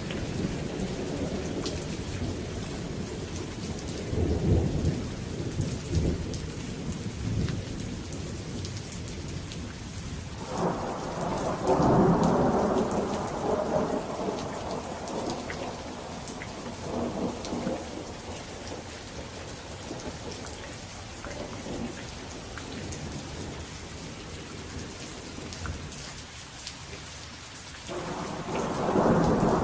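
Steady rain falling through a thunderstorm, with thunder rumbling. A loud roll of thunder breaks about ten seconds in and rumbles away over several seconds; another starts suddenly near the end.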